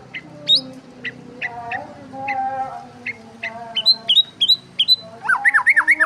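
Small birds chirping: short, sharp, rising chirps about twice a second, then a quick run of five or six chirps near the end.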